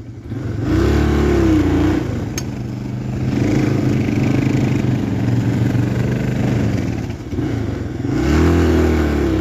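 Dual-sport motorcycle engine running at a low, steady speed, revved up and back down twice, briefly about a second in and again near the end.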